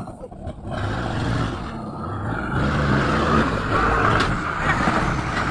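A motor vehicle running: a steady low rumble with road or engine hiss that grows louder about a second in.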